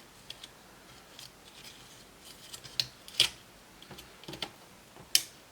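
Scattered light clicks and taps of small laptop parts being handled and set down during disassembly, the sharpest a little past three seconds in and again near the end.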